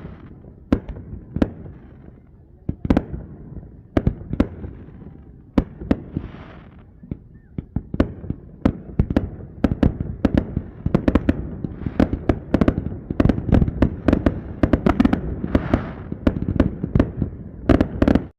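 Fireworks going off: a rapid string of sharp bangs and crackles over a low rumble, growing denser toward the end and cutting off suddenly.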